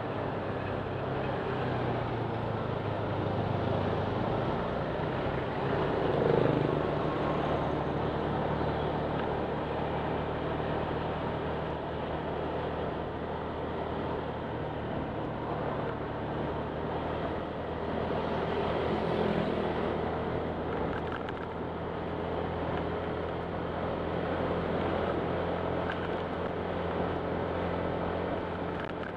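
Honda Click 125 scooter's single-cylinder engine running steadily while riding, a continuous low hum under road and wind noise, its pitch shifting slightly in the first few seconds.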